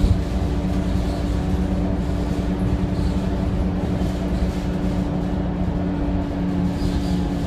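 Scania K230UB bus's 9.3-litre five-cylinder Scania DC9 diesel running steadily at an even speed, with a low rumble and a steady drone, and a single thump right at the start.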